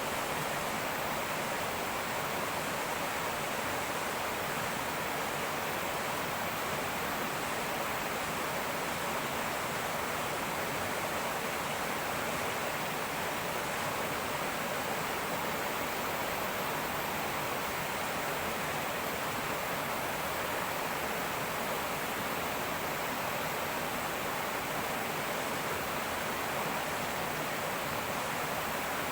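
Fast-flowing river rushing and babbling in a steady, unbroken stream of water noise.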